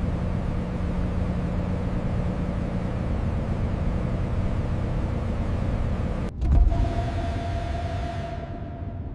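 Steady heavy mechanical rumble with a low hum. About six seconds in it breaks off briefly and a low thump follows, then a steadier hum with a single mid-pitched tone that grows duller near the end.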